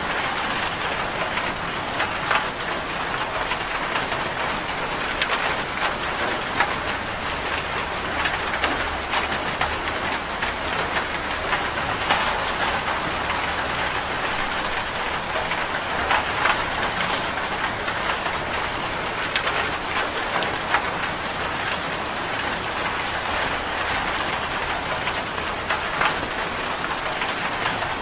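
Steady rain falling, with many small sharp drop ticks scattered throughout.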